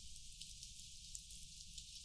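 Faint steady rain: an even hiss with scattered drops ticking through it over a low rumble.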